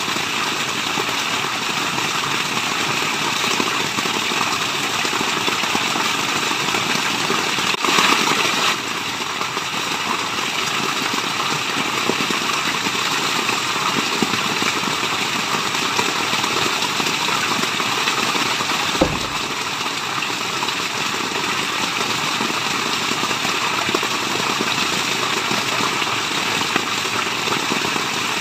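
Waterfall: a steady, even rush of falling water, with a brief louder surge about eight seconds in.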